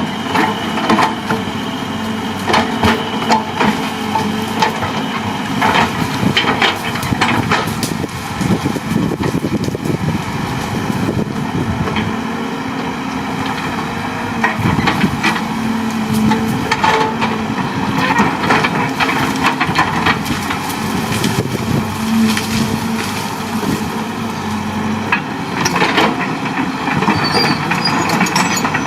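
Excavator engine running steadily under many irregular cracks and snaps of wood being crushed and splintered as it clears land.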